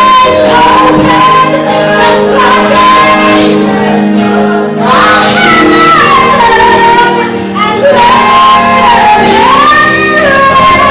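Worship song sung live: a woman's lead voice carries a slow, held melody over sustained instrumental chords.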